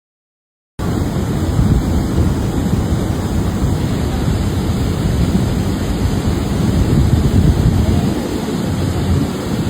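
Wind buffeting the microphone: a loud, uneven rushing rumble, heaviest at the low end, that cuts in suddenly about a second in.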